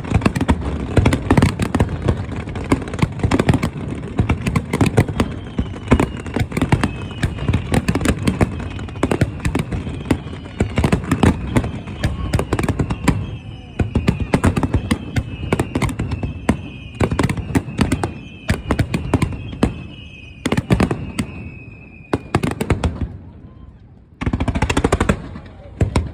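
Fireworks display: rapid, dense bangs and crackling, with a string of falling whistles through most of it. Near the end the bangs thin out briefly before a fresh loud burst.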